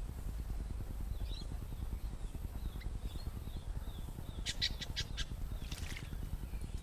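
Background birds calling: faint high chirps, then a quick series of about five sharp chirps a little past the middle and one more call after it, over a steady low rumble.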